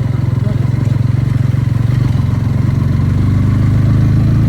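Motorcycle engine running steadily while riding, a deep pulsing drone that grows a little louder in the second half.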